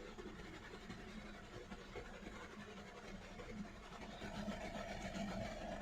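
Faint, steady running of a Hyundai Verna's 1.6-litre petrol engine, which is misfiring on cylinder 3.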